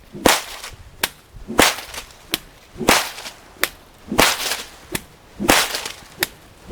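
A bullwhip cracked again and again, about ten sharp cracks, roughly one every two-thirds of a second.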